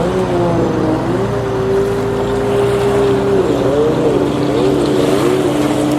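Jet ski engine running on the water. Its note holds steady for a couple of seconds, then rises and falls several times as the throttle is worked.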